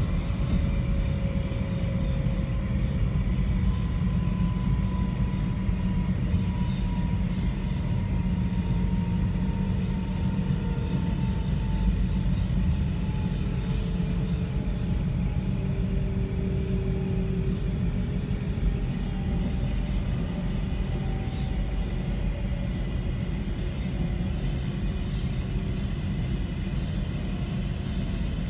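Cabin noise of an NS Sprinter Light Train electric multiple unit running along the line: a steady low rumble, with faint whining tones that slowly fall in pitch.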